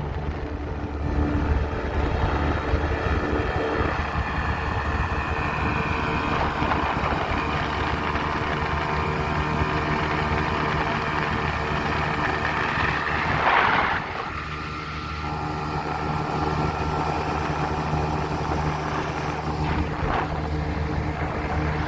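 Small boat's motor running steadily under way, with wind and water rush. About two-thirds of the way through there is a brief louder rush, then the sound drops a little for a moment.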